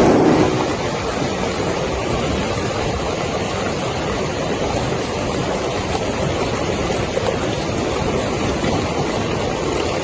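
Fast-flowing floodwater rushing, a steady even noise with no distinct events.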